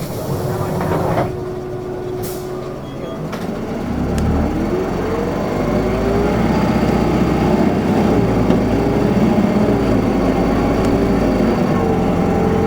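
Isuzu Erga city bus, heard from inside, pulling away. A short hiss of air, likely the brakes releasing, comes in the first seconds. From about four seconds in the diesel engine builds up, its pitch rising and dropping back several times as the transmission shifts up through the gears.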